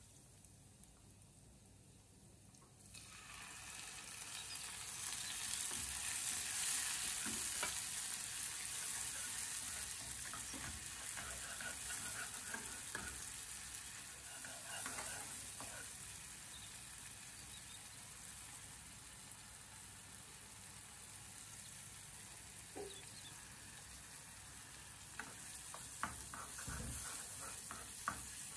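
Food sizzling in hot oil. The sizzle starts suddenly about three seconds in, is loudest soon after, and keeps going, with light clicks and scrapes of a utensil stirring.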